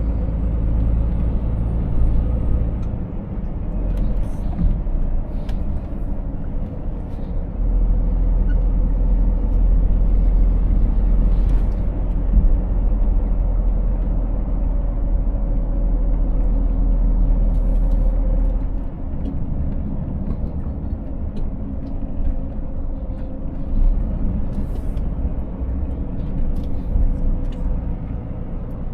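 Scania 500S truck driving: a deep, steady engine drone with road noise, growing louder about eight seconds in and easing off a little past the middle, with a few brief ticks and knocks.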